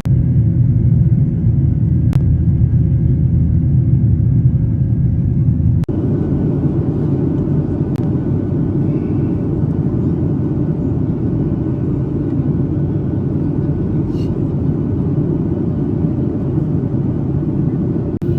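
Airliner cabin noise: a steady low rumble of jet engines and airflow heard from inside the cabin. The rumble changes abruptly about six seconds in, and a few faint clicks sit over it.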